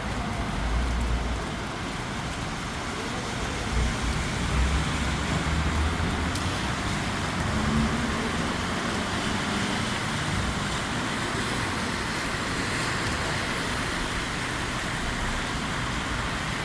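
Road traffic on a rain-soaked street: a steady hiss of rain and wet tyres, with the low rumble of passing vehicles swelling about a second in and again from about four to eight seconds in.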